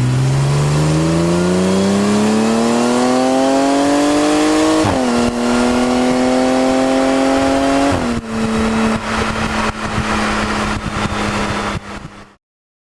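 2011 Porsche Cayman's 2.9-litre flat-six running through a Remus aftermarket exhaust, pulling hard with the pitch climbing steadily, then dropping sharply at a gear change about five seconds in and again about three seconds later. After that it holds a steady note with irregular crackles from the exhaust, and the sound cuts off suddenly near the end.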